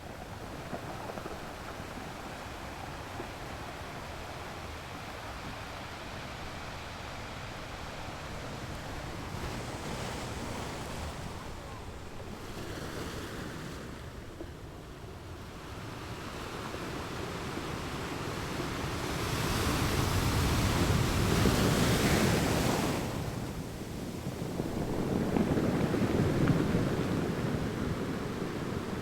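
Ocean surf: a steady rush of waves, with a wave breaking and surging louder about twenty seconds in and another a few seconds later.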